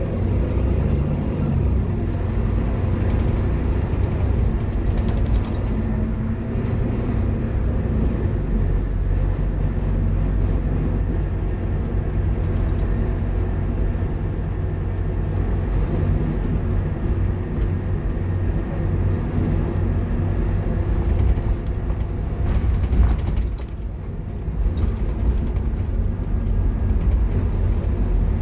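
Scania K230UB Omnilink bus under way, its diesel engine running with a steady drone over road noise. About 23 seconds in comes a short loud burst of noise, after which the engine is briefly quieter before picking up again.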